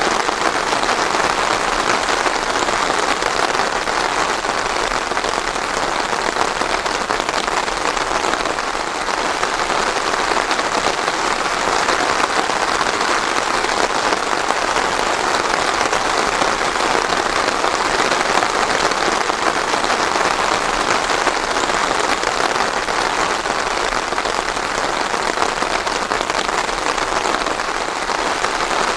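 Steady heavy rain falling and pattering on surfaces, a dense even hiss with no thunder.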